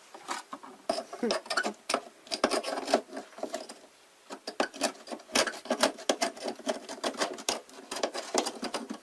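Plastic humidifier parts being scrubbed and handled: irregular clicks, knocks and rubbing, with a short pause about four seconds in.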